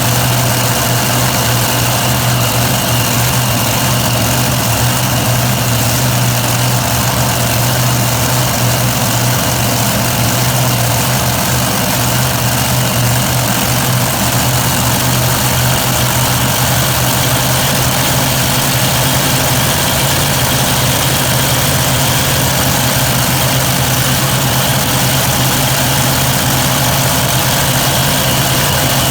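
Engines of a super modified pulling tractor idling steadily and loudly while warming up, holding one even pitch with no revving.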